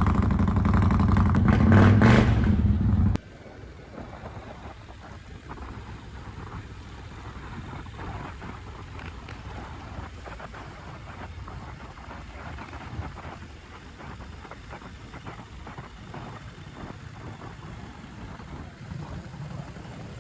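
Motorcycle engine running loud and revving up about two seconds in, then cut off abruptly a little after three seconds by a much quieter, steady low rumble.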